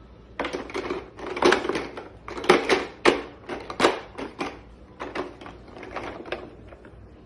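Irregular rustling and clattering as something is handled and knocked about, in quick uneven bursts of about six seconds with a few sharper, louder knocks in the middle.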